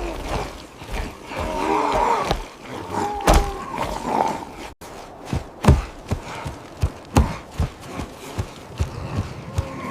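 A large animal growling and snarling with a rough, wavering voice. After an abrupt cut about halfway through, heavy thuds come steadily, about two or three a second, like running footsteps.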